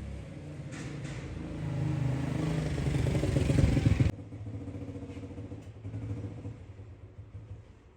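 An engine running and growing louder for about four seconds, then an abrupt cut to a quieter engine sound that fades near the end.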